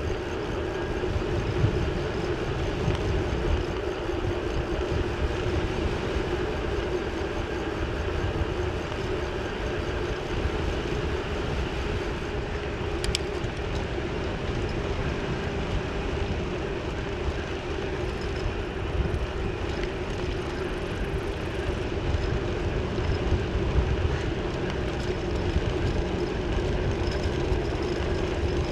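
Bicycle ride: wind rushing over the microphone with low road rumble and a steady hum, and one sharp click about 13 seconds in.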